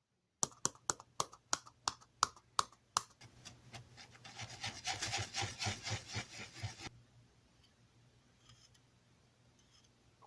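Hand scraping or rubbing on wood in sharp strokes, about three a second, that run together into steady rubbing about four seconds in and stop near the seven-second mark.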